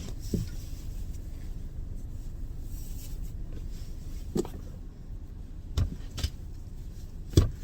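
Steady low rumble of a car with a few scattered knocks and thumps, the loudest near the end.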